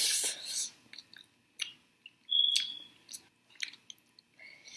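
Close-miked chewing of spicy mango habanero chicken wings: many small wet mouth clicks and smacks, with two louder hissing bursts, one at the start and one about halfway through.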